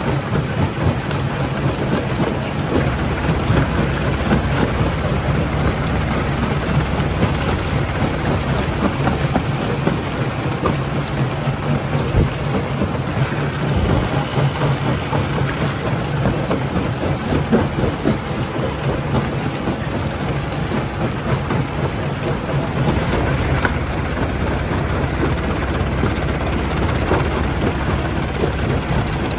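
Jaw crusher at work: rock clattering and cracking in the jaws without a break over a steady machine hum, with a couple of heavier knocks about halfway through.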